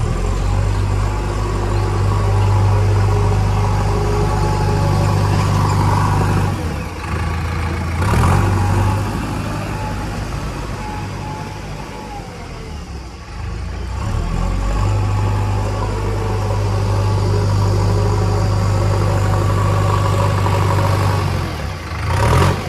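Heavy diesel engine working under load. Its load eases for several seconds in the middle, then picks up again. There are short sharp noises about eight seconds in and again near the end.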